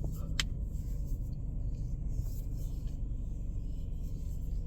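Steady low road and engine rumble of a car being driven, heard from inside the cabin, with one light click about half a second in.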